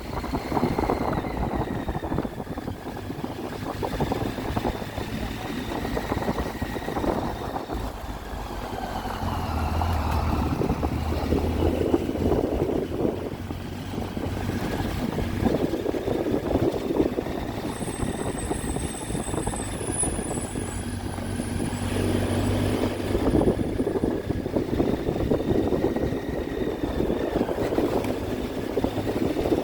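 Triumph Tiger 800's three-cylinder engine running while riding uphill, its note dipping and rising gently with the throttle.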